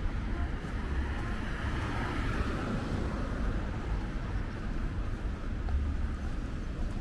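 Steady outdoor background roar with wind gusting on the microphone, the low rumble swelling and easing every few seconds.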